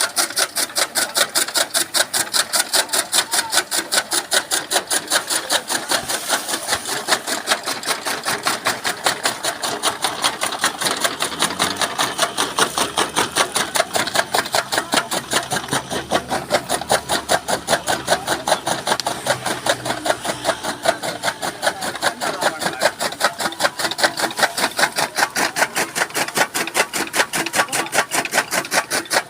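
Chaff cutter (toka machine) chopping green maize stalks into fodder, its blades striking in a fast, even rhythm.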